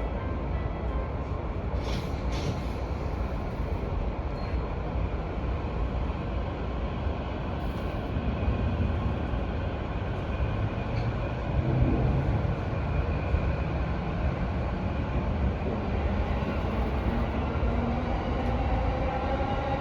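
Electric commuter train running on the rails with a steady rumble of wheels and running gear. In the last few seconds the traction motors' whine rises in pitch as the train gathers speed.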